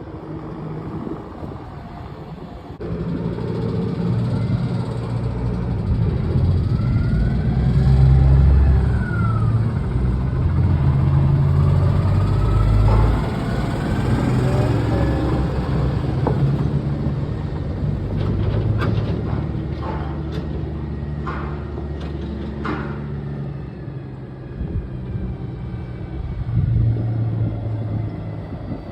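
Heavy diesel truck engine running, its pitch rising and falling as it works, with a few sharp knocks or clanks in the later part.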